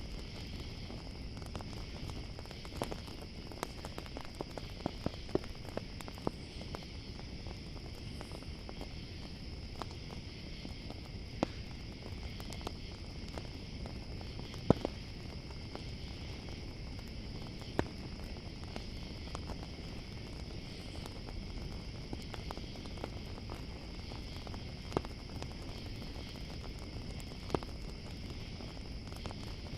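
Campfire crackling with irregular sharp pops, a handful clearly louder than the rest, over a steady low rumble of the fire. Under it runs a constant high chorus of chirping crickets.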